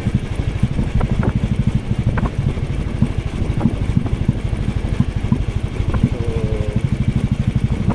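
Motorcycle engine running steadily while riding, a rapid even pulsing of exhaust beats, with a few light clicks.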